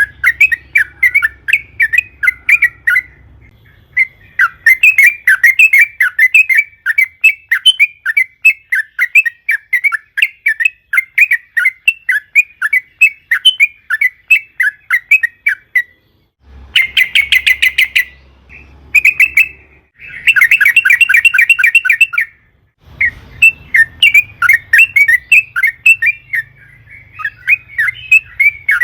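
Yellow-vented bulbul (trucukan) singing long, rapid runs of chattering notes in several phrases separated by short pauses, with two denser, faster bursts past the middle.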